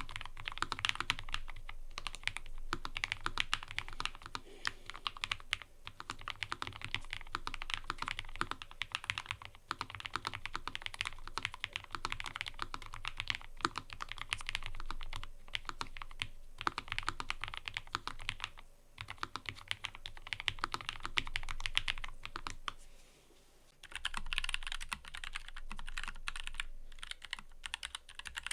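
Mechanical keyboard being typed on quickly and continuously, a dense run of crisp key clicks and clacks. It breaks off in a few short pauses, with one longer pause of about a second roughly three-quarters of the way through.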